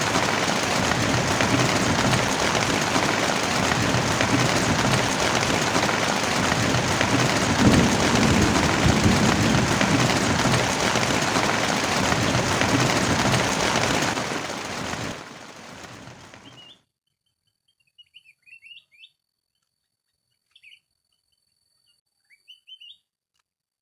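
Heavy rain pouring steadily, then fading out about two-thirds of the way through. After it, a few faint short bird chirps in near silence.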